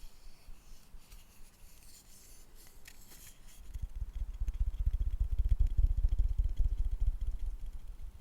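Light scraping and rubbing on wood, then, about halfway through, a louder run of rapid, dull, deep thuds, as of wood rubbed or tapped close against the microphone.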